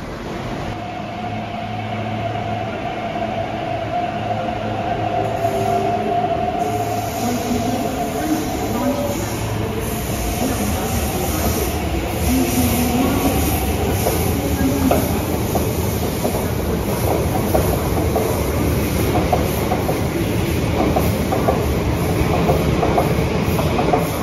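Electric multiple-unit train (MTR East Rail Line Hyundai Rotem R-Train) running past on the far platform track, growing steadily louder. A held whine sounds in the first half; wheels click repeatedly over the rails through the second half.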